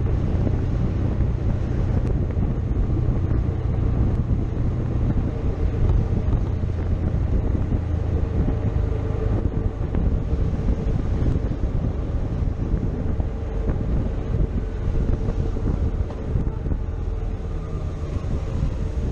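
Motorcycle engine running at a steady pace while riding, with wind rushing over the microphone.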